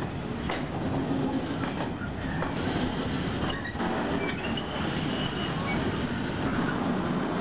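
Freight train of covered sliding-wall wagons rolling past: a steady rumble of steel wheels on rail, broken by irregular clacks as the wheels cross rail joints. A faint high wheel squeal rises briefly about four seconds in.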